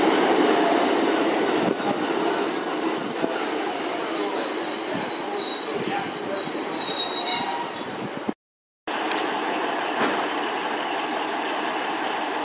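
Class 150 Sprinter diesel multiple unit moving along the platform, its wheels squealing in thin, high, steady tones over the running rumble. The sound drops out suddenly for half a second about eight seconds in, then the train's running noise carries on without the squeal.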